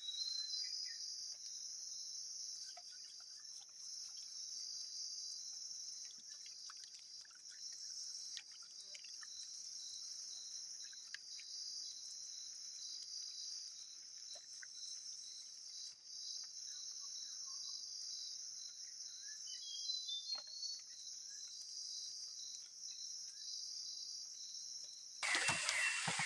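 Insects chirring steadily in a high-pitched chorus, with one evenly pulsing trill, and a few faint ticks. About a second before the end, a louder insect chorus sets in.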